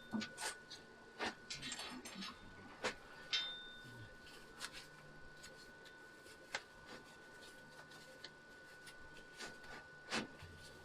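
Faint scattered clicks and knocks over a quiet steady background tone.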